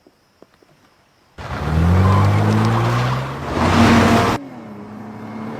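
A car engine accelerating hard, its pitch climbing steadily, comes in suddenly about a second and a half in. It cuts off abruptly about four seconds in, leaving a quieter, steady engine hum.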